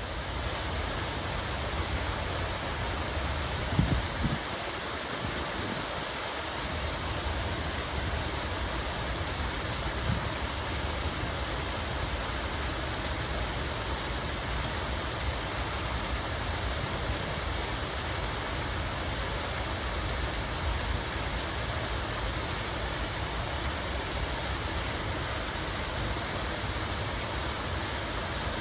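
Running water pouring and splashing steadily, with a low rumble beneath. A couple of brief low thumps about four seconds in.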